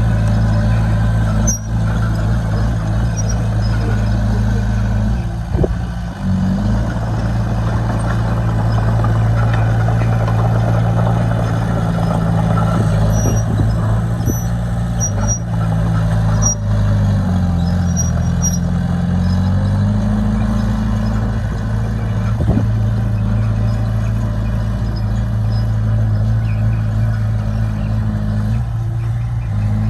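Diesel engine of heavy earthmoving machinery running steadily. Its pitch dips for a couple of seconds just past the middle and then recovers, with a few sharp knocks scattered through.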